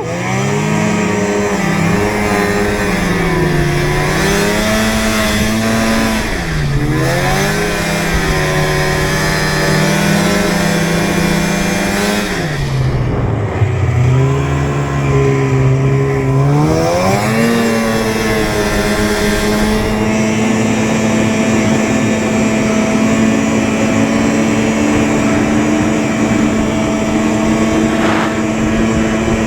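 Vehicle motor running under way with a pitched whine that rises and falls repeatedly with the throttle, dipping low about 6 and 13 seconds in, then holding a steady pitch at cruising speed from about 18 seconds on, over a steady rush of noise.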